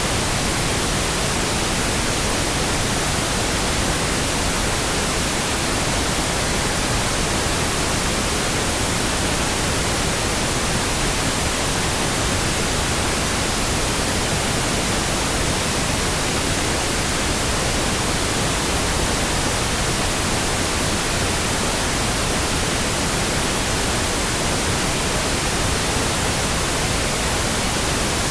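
Steady pink noise: an even, unchanging hiss that is spread across all pitches.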